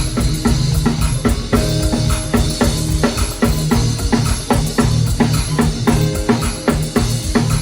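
Music played on a full drum kit, with bass drum and snare hits in a steady, busy rhythm over a sustained bass line and higher pitched notes.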